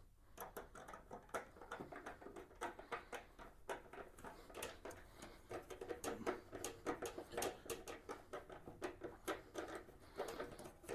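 Faint, irregular small clicks and light taps of a bolt and chrome wheel trim cover being worked by hand while the bolt's shoulder is fed into its hole.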